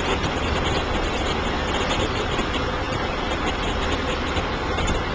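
Fire engine's engine running steadily, a dense even noise with a low hum underneath.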